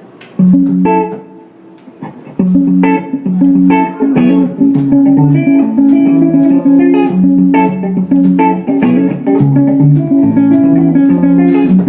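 A band's guitar intro: one chord, a short pause, then a repeating riff from about two and a half seconds in, with bass under it.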